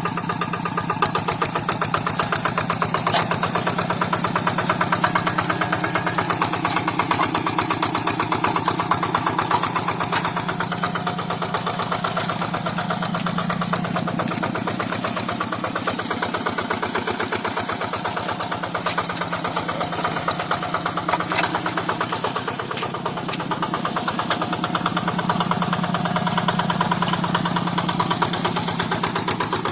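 Tractor's diesel engine running steadily with a fast, even chugging while harrowing a rice paddy.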